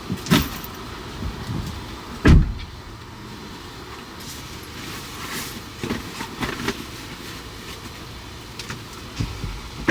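Car doors or hatch being shut while the car is loaded, with a sharp thump just after the start, a louder one about two seconds in and another near the end, over steady background noise.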